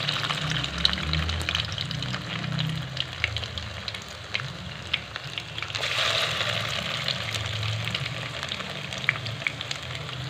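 Chicken seekh kebabs on wooden skewers sizzling as they shallow-fry in hot ghee in a non-stick pan, a steady crackle with many small pops. The sizzle grows louder about six seconds in.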